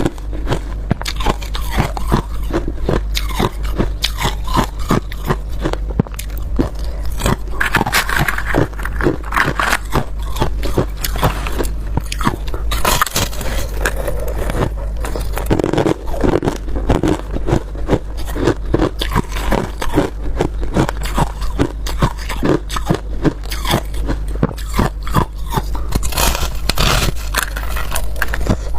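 A person biting and chewing ice close to the microphone: a dense, continuous run of crunches and cracks, over a steady low hum.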